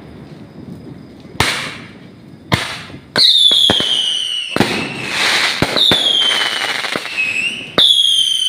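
Fireworks going off: a few sharp bangs, then from about three seconds in a run of whistling fireworks, each whistle falling slowly in pitch over crackle and more bangs.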